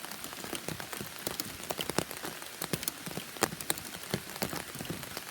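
Heavy rain falling: a steady hiss with many irregular, sharp drop impacts.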